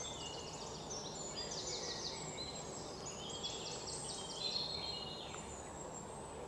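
Several birds chirping and giving quick, repeated high trills over a steady background hiss.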